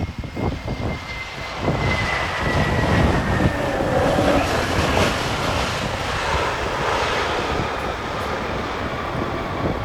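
Jet airliner's engines passing, a steady rush with a whine that slowly falls in pitch, with wind buffeting the microphone.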